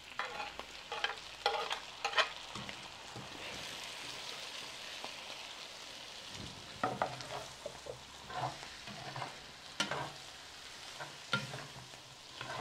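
Chopped tomato, onion and cilantro sizzling as they drop into hot oil and browned chorizo in a clay cazuela, with a steady hiss through the middle. A spatula scrapes the vegetables off a clay plate at the start, then scrapes and knocks against the pot as it stirs in the second half.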